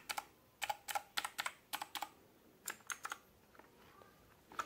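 Royal Kludge RK61 mechanical keyboard with blue switches, keys being pressed one at a time in an uneven rhythm: sharp clicks, often in close pairs, that thin out about three seconds in, with one more click near the end.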